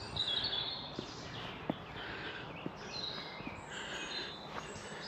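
Several songbirds singing at once, a steady mix of short whistled phrases, chirps and trills.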